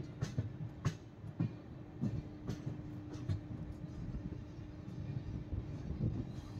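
Passenger express train running on the line: the wheels knock irregularly over rail joints, several sharp clacks a second over a continuous rumble, with a steady hum underneath.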